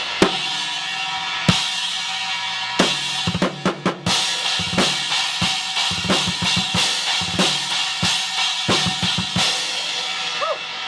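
Drum kit played in a raw, unmixed recording: kick and snare strikes over a steady ringing cymbal wash, broken by several quick runs of hits.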